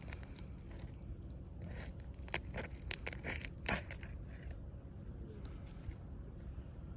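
Asphalt shingles being pried up, their sealant bonds tearing loose in a short series of crackles about two to four seconds in. The shingle mat is coming away with the seal, so these shingles will not reseal.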